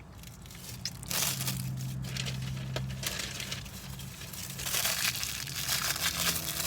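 Crinkling and rustling of food packaging being handled and torn open, starting about a second in, over a steady low hum.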